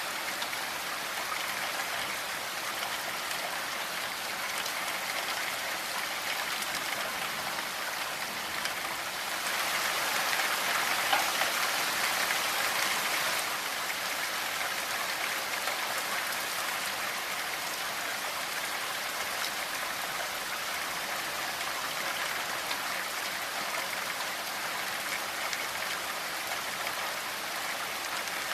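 Steady rainfall: a dense even patter of raindrops. It grows a little heavier for a few seconds about nine seconds in, then eases back.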